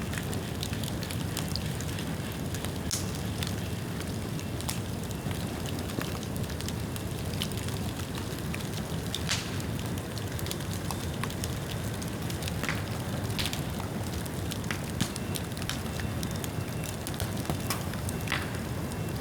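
Bamboo bonfire burning: a steady low rush of flame with scattered sharp crackles and pops from the rain-wet bamboo.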